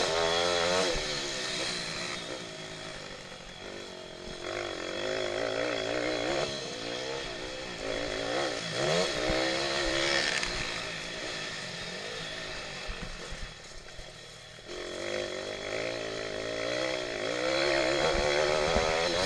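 Pit bike engine revving hard while racing, its pitch rising and falling again and again with throttle and gear changes, easing off briefly a few times before pulling hard again.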